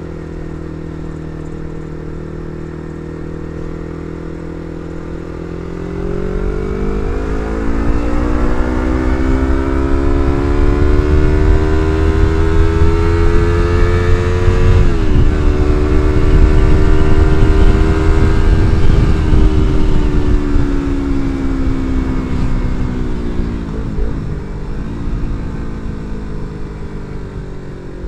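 Yamaha MT-25's 250 cc parallel-twin engine through an R9 aftermarket exhaust, while riding. It cruises steadily, then opens up about six seconds in and pulls with rising pitch. There is a quick shift about halfway, then the engine eases off with slowly falling pitch toward the end.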